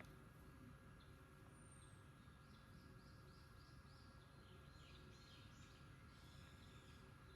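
Quiet outdoor ambience with a faint bird singing: a run of about six quick, evenly spaced high notes, followed by a few more varied phrases.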